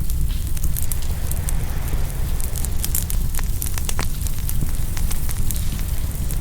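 Open wood fire crackling and popping in many sharp snaps, a few louder pops about three and four seconds in. A steady low rumble of ocean waves runs underneath.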